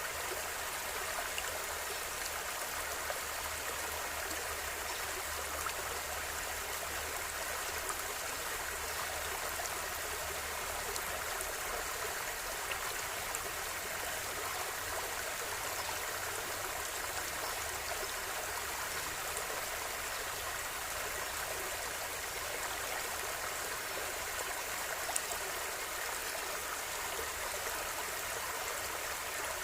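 River water flowing steadily over stones, an even rushing wash with small splashes and gurgles.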